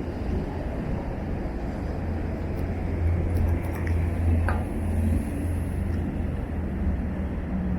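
Low, steady rumble of a harbour ferry's diesel engine, with a brief falling squeak about four and a half seconds in.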